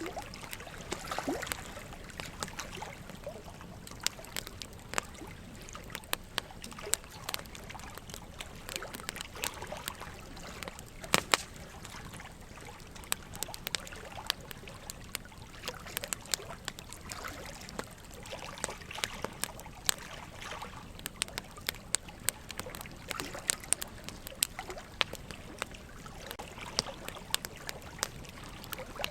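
Logs burning in a wood fireplace, crackling with frequent irregular sharp pops, the loudest about eleven seconds in, over a steady trickle of running water.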